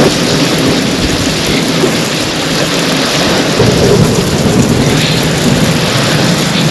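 Heavy rain falling steadily in a thunderstorm, with a continuous low rumble of thunder underneath.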